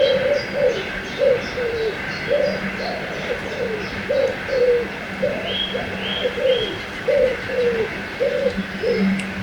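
A dove cooing in a long run of short notes, about two a second, some level and some sliding down. Small birds chirp high above it, over a steady rush of river water.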